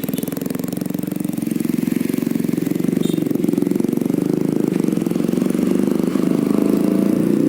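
Yamaha New Jupiter MX's single-cylinder four-stroke engine, bored out to 177cc, running through a DX Generation Sphere Oval aftermarket exhaust. It is held at raised revs in a fast, even exhaust note that grows gradually louder.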